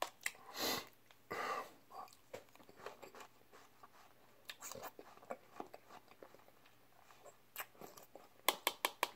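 Close-up mouth sounds of a person eating banana pudding from a spoon: soft chewing with scattered lip smacks and tongue clicks, and a quick run of smacks near the end.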